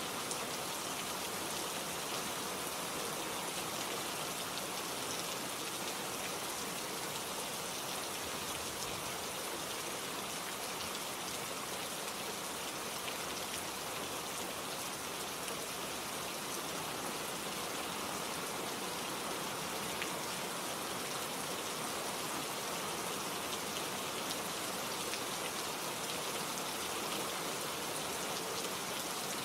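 Steady rainfall with a close patter of drops striking leaves and surfaces, holding even throughout.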